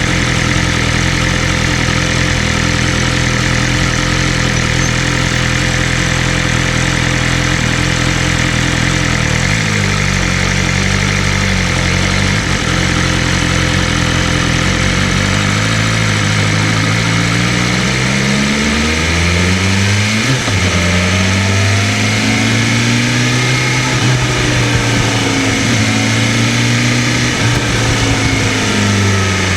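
BMW M1000RR superbike's inline-four engine running, steady for the first several seconds, then rising and falling in pitch again and again as it revs up and drops back.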